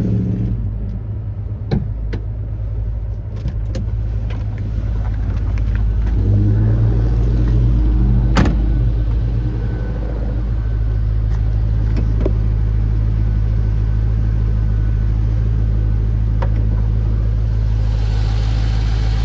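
2006 Pontiac GTO's 6.0-litre LS2 V8 with a cat-back exhaust idling steadily, a little louder for a couple of seconds about six seconds in. Several sharp clicks and knocks sound over it, the loudest about eight seconds in.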